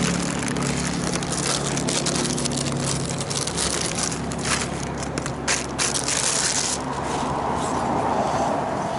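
Packaging being handled and unwrapped: irregular crinkling and rustling with sharp crackles, thickest between about three and seven seconds in, over a steady low hum.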